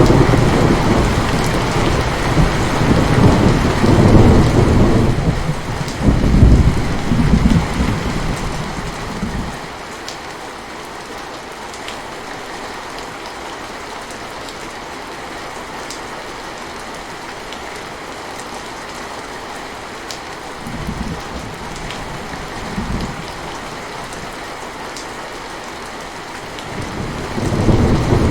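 Steady rain falling, with rolls of thunder: a long rumble through the first nine seconds or so, two short ones a little past the middle, and another building near the end.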